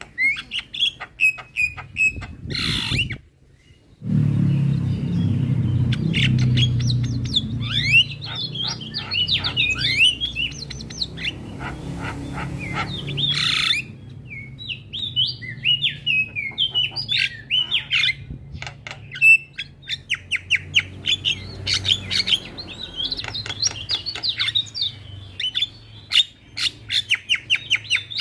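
Javan myna singing a varied chattering song of squeaky whistled notes, harsh squawks and rapid clicking rattles. The song breaks off briefly about three seconds in. A low rumble sits under the first half.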